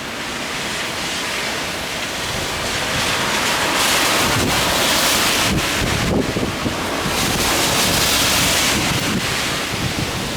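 Strong gusty typhoon wind rushing through the branches of a large fir tree, with wind buffeting the microphone. The rushing swells twice, about four and eight seconds in.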